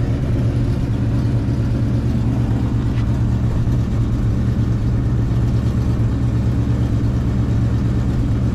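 Car engine running steadily, holding one speed with no revving.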